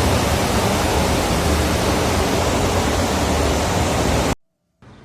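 Loud, steady roar of ship's machinery noise, heavy in the low end, which cuts off abruptly about four seconds in.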